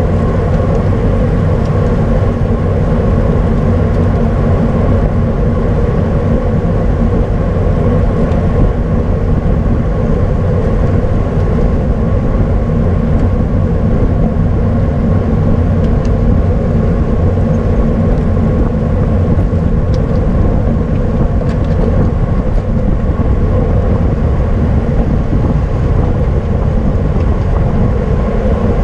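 Wind rushing over the microphone of a camera riding on a racing bicycle, a loud steady rumble with no break.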